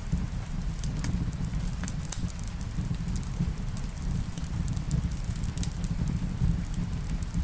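Wood fire in a fireplace crackling, with scattered sharp pops over a steady low rumble, and a faint hiss of rain underneath.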